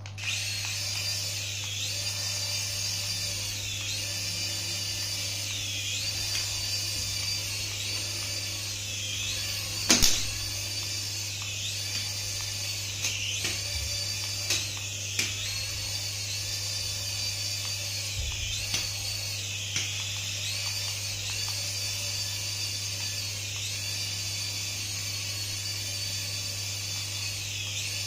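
High-pitched electric whine from a battery-powered toy, dipping briefly in pitch and recovering every second or two, over a steady low hum. A sharp knock comes about ten seconds in, and a few lighter clicks follow.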